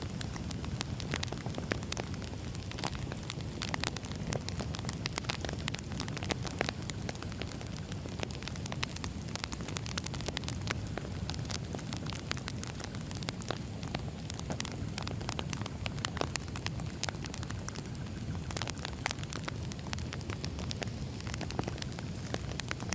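Wood fire burning steadily in a fireplace, with a constant low rumble of flame and frequent irregular crackles and pops from the burning logs.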